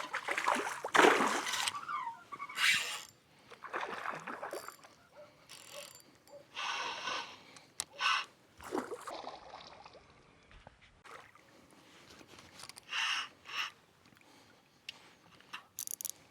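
Water splashing and sloshing in short, irregular bursts, loudest about a second in.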